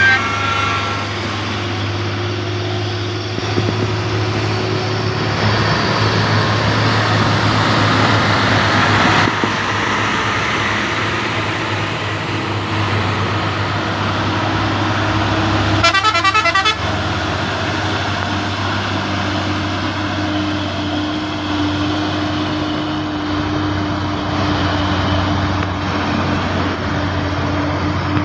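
Heavy trucks' diesel engines running with a steady low drone as traffic climbs a steep hill, with a short horn toot at the start and a loud, harsh horn blast about a second long some sixteen seconds in.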